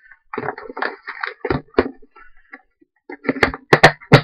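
Craft materials being handled on a desk: short rustles, with about five sharp knocks on the tabletop in two groups, the loudest near the end.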